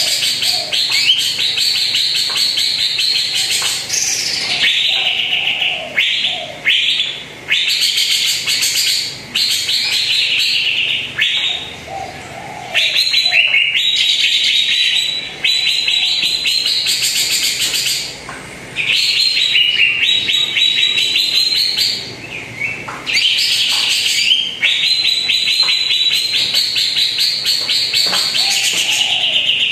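Greater green leafbird (cucak ijo) singing long, fast chattering phrases a few seconds each, with short pauses between them.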